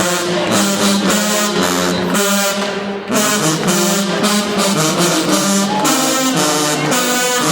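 Marching band brass section playing a loud stand tune, trombones and trumpets together, with a brief break about three seconds in before the horns come back in.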